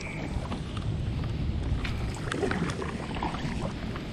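Wind buffeting the microphone with a steady low rumble, along with scattered light clicks and taps from a fishing kayak and its gear while a hooked bass is being played.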